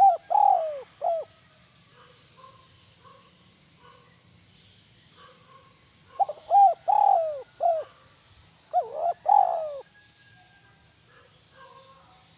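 Spotted dove cooing in groups of short, falling coo notes: one phrase right at the start, then a longer run from about six to ten seconds in. Faint chirps of small birds fill the gaps.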